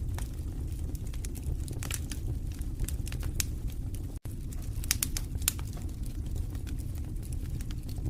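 Wood fire burning in a fireplace: irregular sharp crackles and pops over a steady low rumble of flames. The sound cuts out for an instant about four seconds in.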